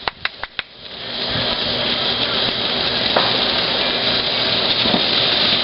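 Consumer firework: a few sharp pops, then from about a second in a dense crackling sizzle that builds and holds steady.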